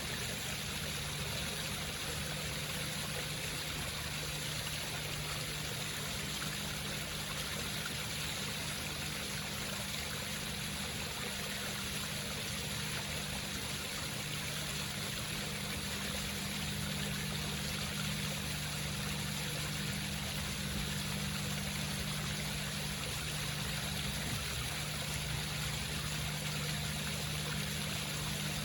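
Water running steadily down a home waterfall, with a steady low hum underneath.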